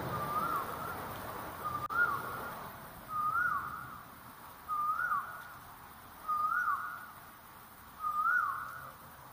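A bird calling repeatedly: a clear rising note with a short hook at the top, six times at about one-and-a-half-second intervals.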